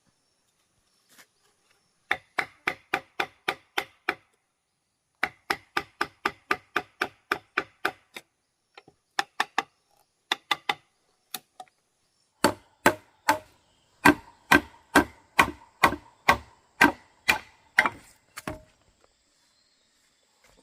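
Hand tool striking wood in quick runs of blows, about four a second, each with a short ringing tone. The runs break off with pauses, and the blows in the second half are louder and heavier.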